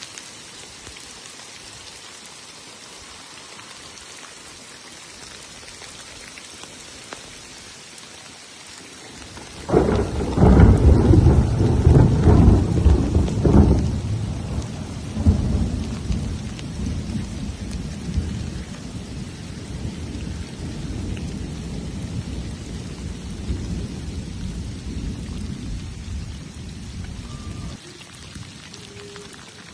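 Steady rain falling, then about ten seconds in a loud clap of thunder breaks out and rolls on as a deep rumble, slowly fading over the next fifteen seconds before the rain alone is left.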